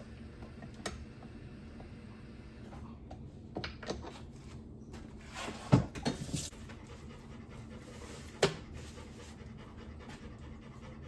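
Dog panting steadily, with a few sharp knocks, the loudest about six seconds in and another about eight and a half seconds in.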